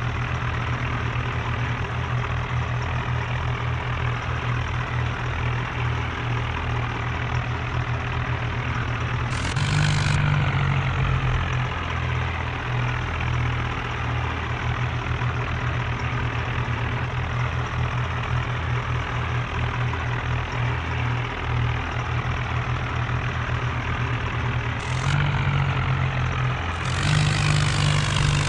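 Tractor diesel engine running hard and steadily. Its pitch and loudness step up briefly about ten seconds in, again near 25 seconds, and once more near the end.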